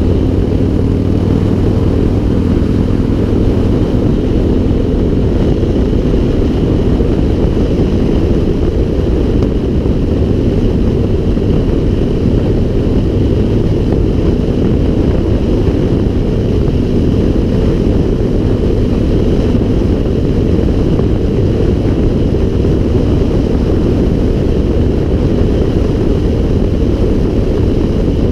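Steady wind rush on an action camera's microphone while riding a bike, with a faint steady hum underneath.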